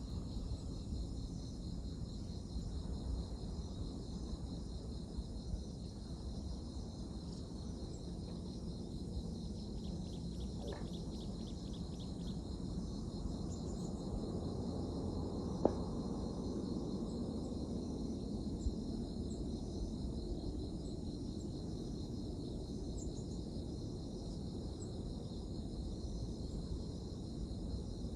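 Insects chirring steadily in a high, even band over a steady low rumble of outdoor ambience, with one faint click about halfway through.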